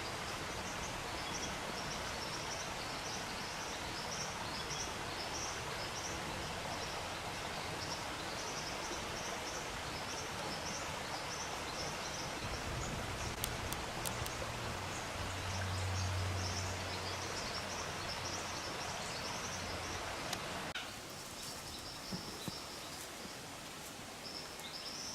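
Bush ambience: a steady hiss with a small high-pitched chirp repeating over and over. A low hum comes in for a few seconds past the middle, and the hiss drops off near the end.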